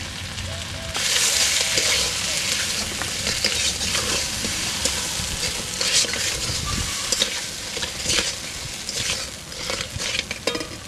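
Crab pieces in masala sizzling in a metal wok while a metal spatula stirs and scrapes them against the pan. The sizzle and scraping strokes get louder about a second in and carry on with repeated scrapes.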